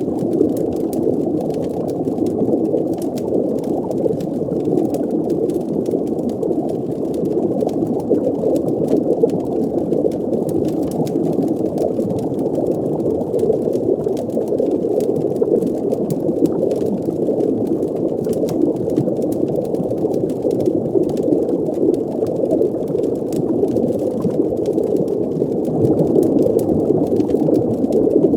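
Underwater ambience: a steady, muffled rumble of bubbling water, with faint scattered crackles on top.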